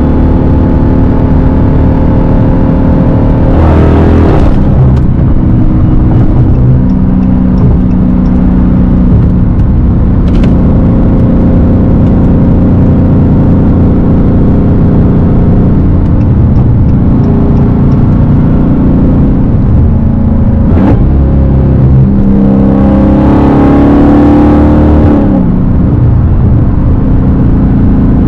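Straight-piped Dodge Hellcat's supercharged 6.2-litre V8 running loud on the move, its exhaust note climbing in pitch under acceleration about four seconds in and again near the end before dropping back.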